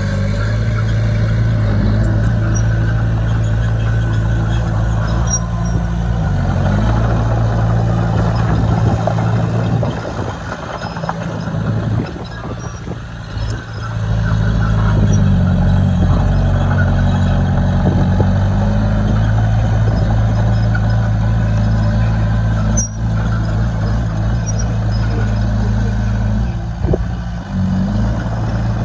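Bulldozer's diesel engine running under load, its pitch dipping and picking up again several times as the load changes, with a quieter spell in the middle.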